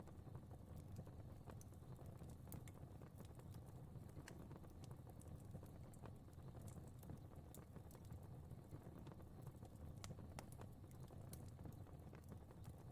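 Fireplace fire crackling faintly: scattered sharp pops and snaps over a low, steady rumble.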